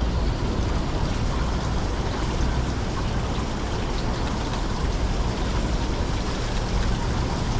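Steady outdoor city ambience: an even low rumble with a hiss above it, no single event standing out.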